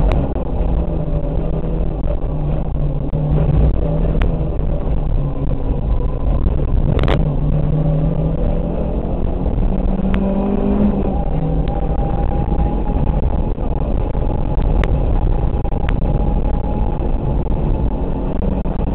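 Rally car engine heard from inside the cabin, running hard at speed on a stage, its pitch rising and dropping as the driver works the throttle, over steady road and tyre noise. A sharp knock about seven seconds in and a few fainter clicks later.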